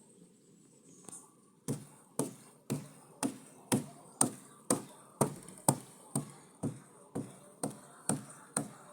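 Steady hammering, about two strikes a second, starting nearly two seconds in: nails being driven while building a chicken coop.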